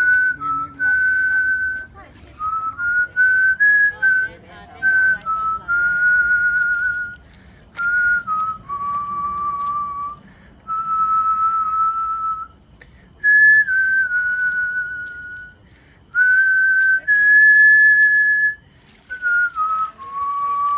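A person whistling a slow tune, with long held notes that step up and down in pitch and short breaks between phrases.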